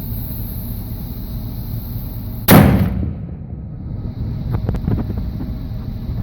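Model Dahlgren cannon, loaded with 150 grains of FFg black powder and a one-inch steel ball, firing once about two and a half seconds in: a single sharp boom that dies away over about half a second. A few faint knocks follow a couple of seconds later, over a steady low rumble.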